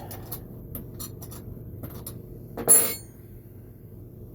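Small clicks and scraping of hand tools on metal bolts of a radial arm saw's motor mount, then a single short, loud metallic clink with a brief ring a little under three seconds in.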